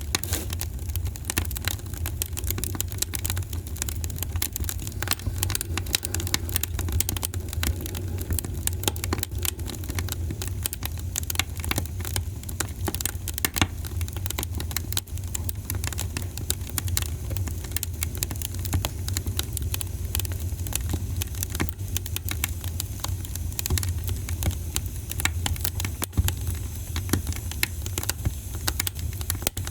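Wood fire crackling: dense, irregular small pops and snaps over a steady low rumble.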